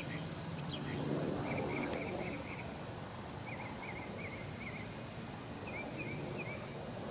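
Outdoor background noise with a small bird chirping in three short bursts of quick, high notes. A low steady hum fades out in the first second or so.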